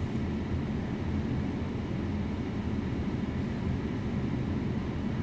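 Steady low rumble of a car's idling engine heard inside the closed cabin.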